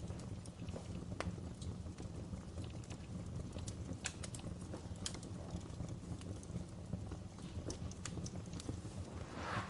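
Wood fire in a fireplace crackling: irregular sharp pops and snaps over a low steady rumble, with a brief louder rush of noise near the end.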